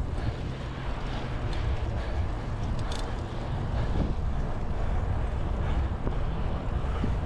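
Wind buffeting the microphone of a bicycle moving at speed, a steady heavy rumble, with road and traffic noise underneath.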